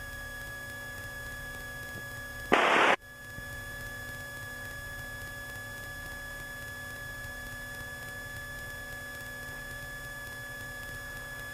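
Steady electrical hum and whine on the aircraft's intercom and radio audio line, with a fixed high tone over a low rumble. A brief, loud burst of static breaks in about two and a half seconds in.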